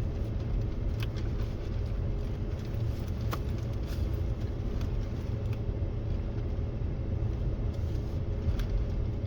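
Flatbed truck driving, a steady low engine and road rumble with a few light clicks or rattles.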